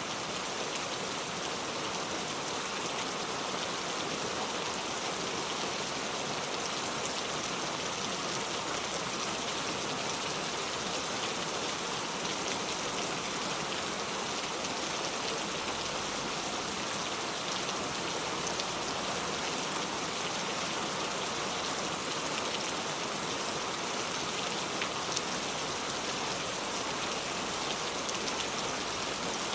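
Steady rain falling, an even hiss of many drops with fine scattered patter.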